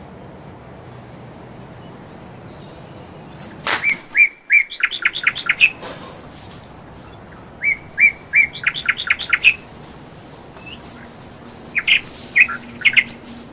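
A bird chirping in three quick runs of short, sharp, high notes, each run lasting one to two seconds, about four, eight and twelve seconds in. A single sharp click comes just before the first run.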